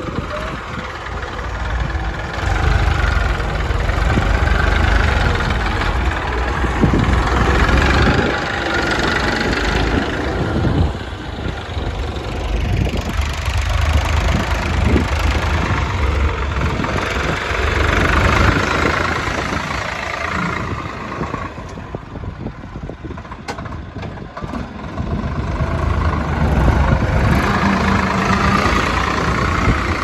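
Diesel engines of a JCB 3DX backhoe loader and tractors running while sand is loaded. The engine sound swells and eases in several long waves.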